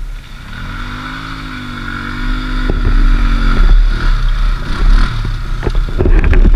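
ATV engine picking up revs and then running steadily, with scattered knocks and rattles, getting louder toward the end.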